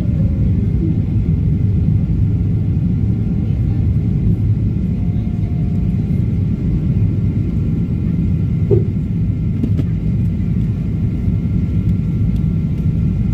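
Boeing 777-200ER airliner's engines and airflow as a steady low rumble heard from inside the passenger cabin during the takeoff, with faint steady whining tones above it. A single short sharp sound about nine seconds in.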